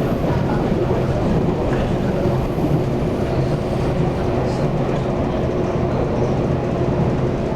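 Taiwan Railways EMU800 electric multiple unit running along the line, heard from inside the passenger car: a steady rumble of wheels on rail with a constant low hum.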